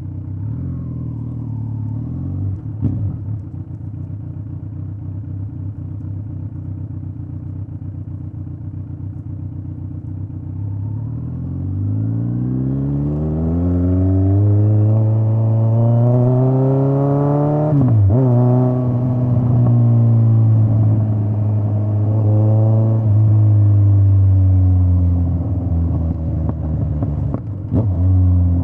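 Straight-piped Kawasaki Z900 inline-four exhaust, running at steady low revs for about ten seconds, then revving up hard, dropping briefly at a gear change around the middle and holding higher revs before easing off and picking up again near the end.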